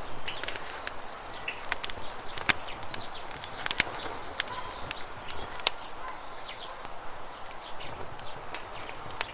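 Campfire crackling with irregular sharp pops, the loudest a few seconds in, over the steady rush of flowing river water, with small birds chirping briefly.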